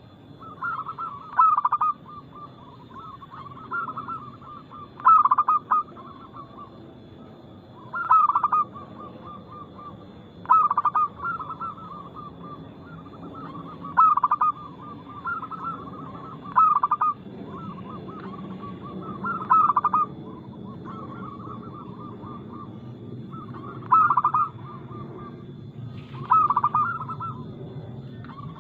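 Zebra doves (perkutut) cooing: short bursts of quick, rolling staccato coos, repeated every one to three seconds over a low steady hum.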